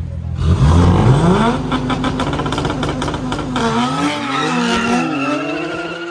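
A car engine revving hard, then running steadily. About four seconds in, tyres start squealing with a wavering pitch.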